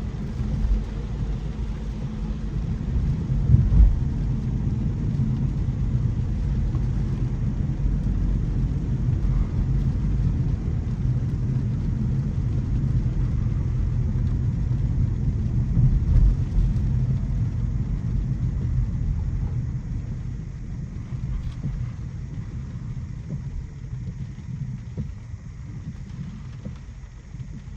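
Low, steady road and tyre rumble of a 2025 Mercedes-Benz C300e being driven, with two louder bumps, one a few seconds in and one about halfway. It gets quieter over the last several seconds.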